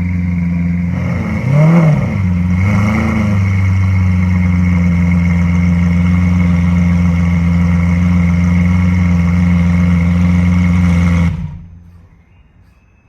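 Lamborghini Aventador LP700-4's 6.5-litre V12 idling, revved in two quick blips about two and three seconds in, then switched off near the end, the engine sound cutting off suddenly.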